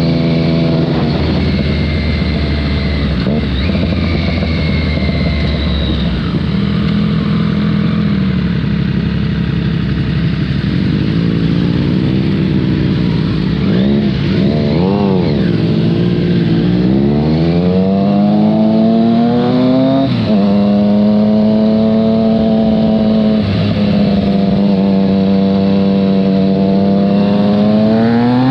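Triumph Street Triple 660 S inline three-cylinder engine running under way: low and steady at first, a few quick rises and falls in revs around the middle, then the revs climb, drop sharply once at a gear change, and climb again near the end.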